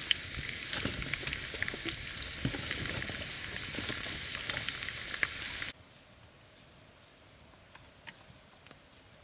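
Food frying: a steady sizzle with crackles that stops abruptly a little over halfway through, leaving only faint background with a few soft clicks.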